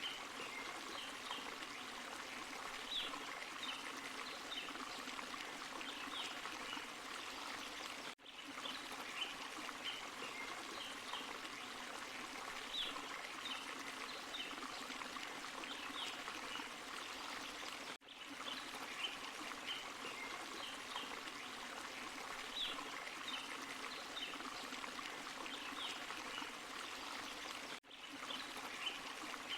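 Forest stream and small waterfall running steadily, with short high-pitched notes scattered over the flow. The sound dips out briefly three times, about every ten seconds.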